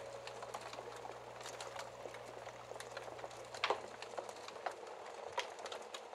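Wood fire crackling: irregular small pops and snaps of varying loudness, with a sharper pop a little over halfway through.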